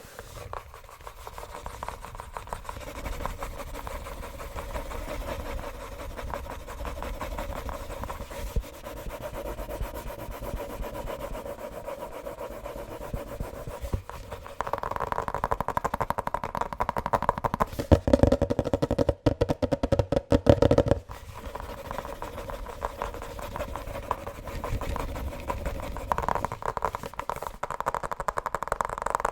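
Fast tapping and scratching on objects held close to the microphone, a dense stream of quick taps and scrapes. The texture changes several times, with louder stretches from about halfway through and again near the end.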